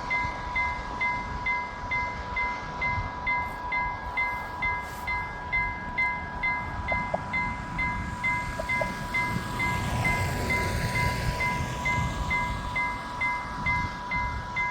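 Railroad crossing warning bell ringing in a fast, even rhythm of about three strokes a second, with wind on the microphone.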